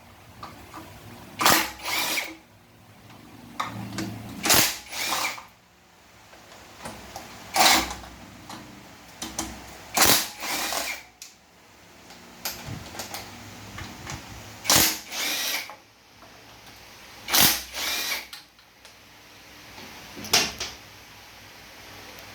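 Power driver spinning in short bursts, mostly in pairs, with quieter clinks and handling noise between: bolts being backed out while a Ford 5R55S automatic transmission is opened up.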